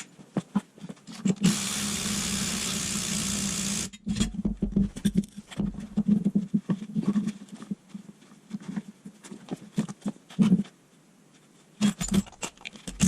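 Workshop tools on a car's front hub: a steady, hissing burst lasting about two and a half seconds, followed by a run of irregular knocks and clanks as the part is worked loose.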